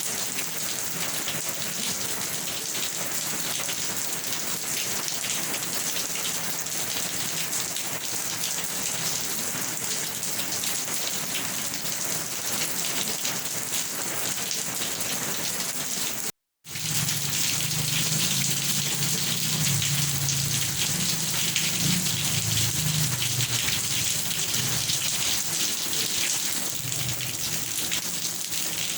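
Steady heavy rain falling on a surface. The sound cuts out for a split second about two-thirds of the way through, and after it a low rumble of thunder rolls under the rain for about ten seconds.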